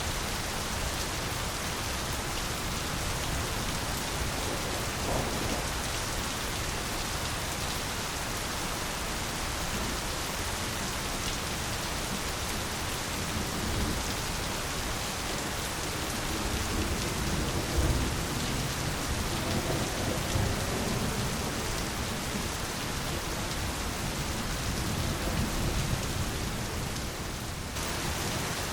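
Steady rain falling, an even hiss of drops. Low rumbles of thunder roll in a little past the middle and again near the end.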